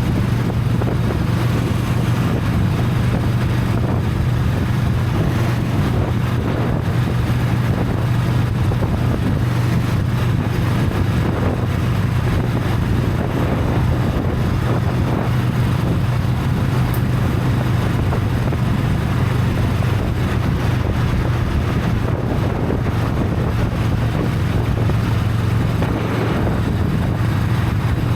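Honda Rebel 500's parallel-twin engine on its stock exhaust, running at a steady, even pitch while the bike cruises, with wind noise on the microphone.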